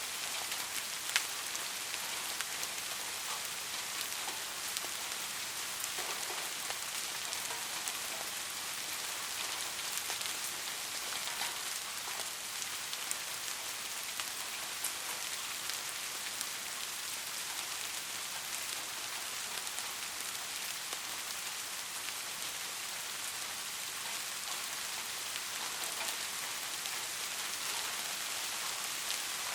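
Soft, steady rain: an even hiss of falling rain with scattered individual drops ticking on a surface, one slightly sharper drop about a second in.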